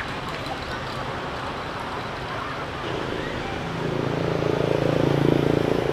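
A road vehicle's engine approaching and passing, growing louder from about halfway through and loudest near the end, over steady outdoor street background noise.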